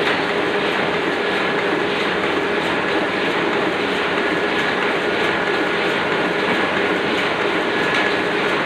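Oliver offset printing press running steadily at its normal working speed: a continuous mechanical clatter with a constant hum under it.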